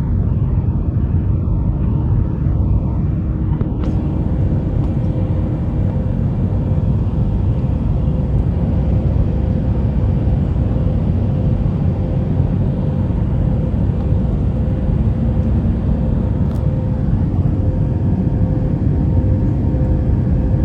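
Airbus A319-112 in climb after takeoff: a steady loud rumble of its CFM56 jet engines and the airflow, with a steady mid-pitched hum over it, heard from inside the cabin.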